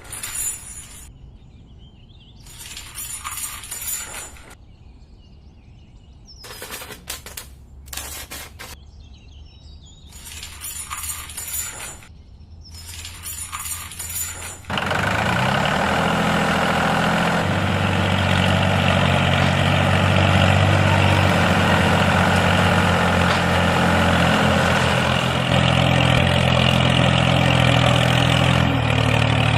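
Scattered rustling and knocking bursts, then about halfway through a miniature tractor's motor starts, its pitch rising briefly, and runs steadily.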